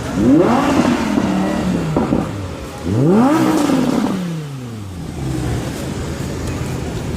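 2016 Audi R8's V10 engine revved twice without moving, each rev rising quickly in pitch and then falling back to idle; the second rev starts near the middle.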